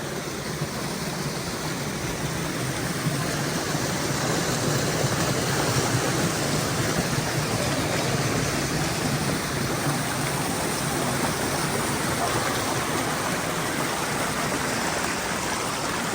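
Steady rush of a mountain stream pouring over boulders in a rocky gorge, a little louder in the middle.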